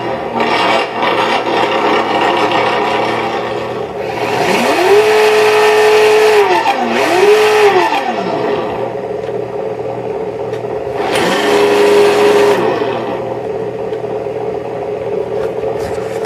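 ESS-One electronic engine sound module in an Axial Bomber RC crawler playing its simulated engine through its small speaker: a steady idle that revs up, holds and drops back as the throttle trigger is pulled, twice in quick succession about four seconds in and once more around eleven seconds.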